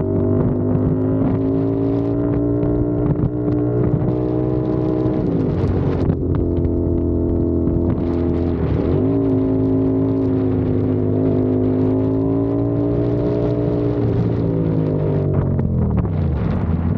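CFMOTO 450SR's parallel-twin engine running at steady road revs. Its pitch dips and climbs back twice, then falls away sharply near the end as the revs drop.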